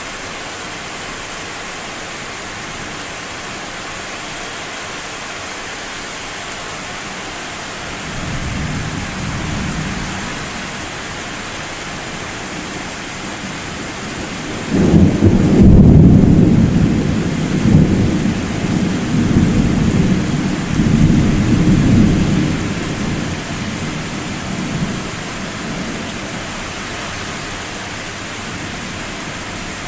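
Thunder over a steady hiss of rain. A soft distant rumble comes about eight seconds in. About halfway through a loud thunderclap breaks suddenly and rolls on in deep rumbles for several seconds before fading.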